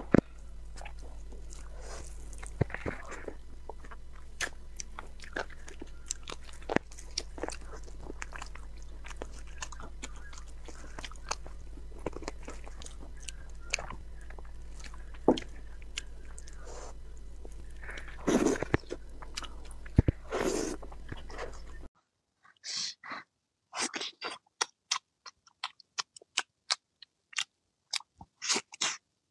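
Close-miked eating: meat being bitten and chewed off the bone (braised sheep bone, then roasted pork leg), with wet smacks and sharp clicks. For the first three-quarters the sounds sit over a steady low hum; then the hum drops away and separate bites and chews come against silence.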